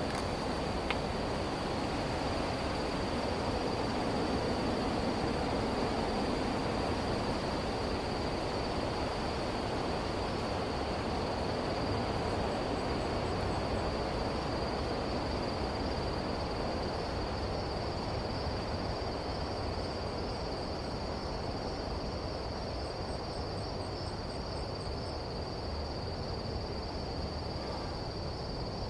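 Nighttime tropical forest ambience: a steady high-pitched insect drone over a broad rushing hiss, with a brief run of rapid high ticking chirps about two-thirds of the way through.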